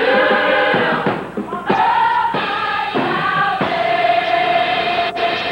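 Gospel choir singing, settling about two-thirds of the way in onto a long held chord.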